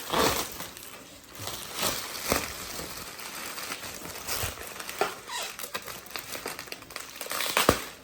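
Packaging being handled as an exhaust front pipe is unboxed: intermittent crinkling and rustling of wrapping, with a few light knocks and a sharp click near the end.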